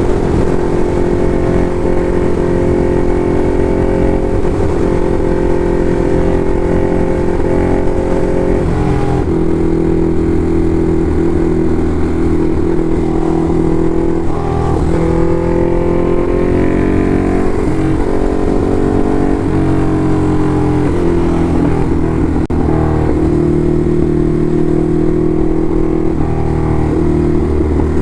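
Ducati Hypermotard SP's V-twin engine running under way, its note holding steady for stretches and changing pitch several times as the throttle and gears change.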